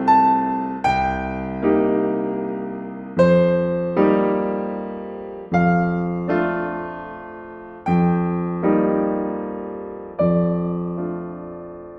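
Slow, gentle solo piano music: chords struck one after another, each ringing out and fading before the next, roughly one every one to two and a half seconds.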